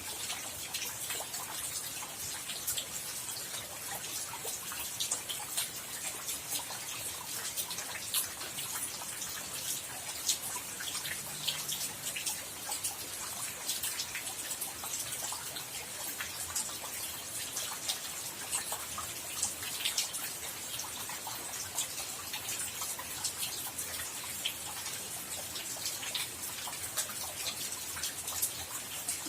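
Steady rain falling, a continuous hiss dotted with many small, sharp drop ticks.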